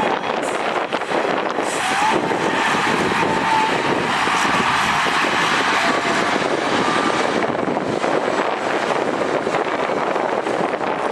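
Heavy earthmoving machinery working: a diesel engine running steadily under load, with a faint whine that rises about two seconds in.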